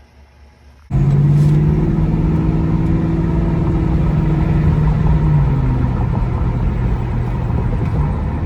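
A Ford Mustang GT's 5.0-litre V8 running, cutting in suddenly about a second in and holding steady, its pitch easing slightly lower in the second half.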